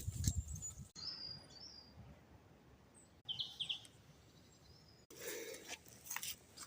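Small birds chirping: short high calls about a second in and again about three seconds in, over a quiet background. There is rustling and knocking at the start and again near the end.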